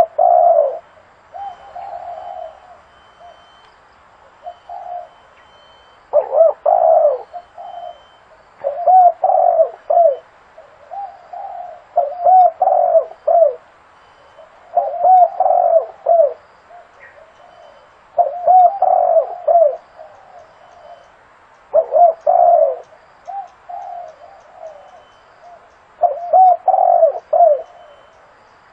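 Spotted dove cooing: phrases of several short low coos, repeated every few seconds with short pauses between, a call used as a decoy to lure wild doves.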